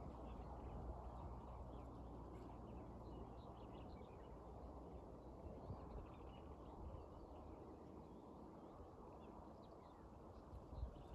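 Faint outdoor ambience: a low steady rumble with scattered faint high chirps, likely birds.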